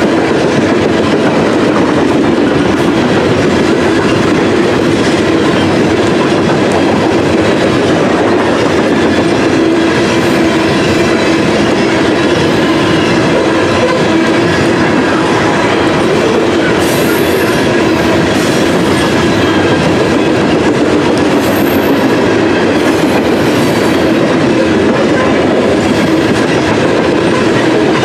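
Freight train of open-top coal hopper cars rolling past close by: a loud, steady rumble with the clickety-clack of steel wheels over the rails. A few brief high wheel squeals come in the second half.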